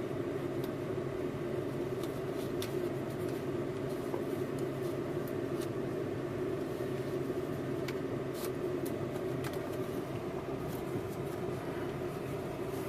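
SUV engine idling steadily, heard from inside the cabin, with a few faint clicks.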